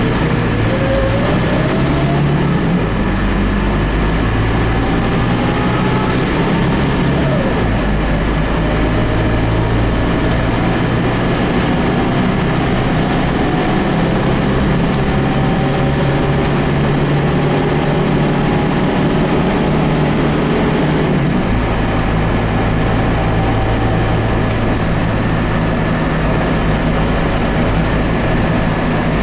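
A Scania DC9 9-litre five-cylinder turbocharged diesel bus engine running under way, with gear whine and a whistle rising over it. The engine note steps three times, about two, seven and twenty-one seconds in, as the ZF five-speed automatic gearbox changes gear.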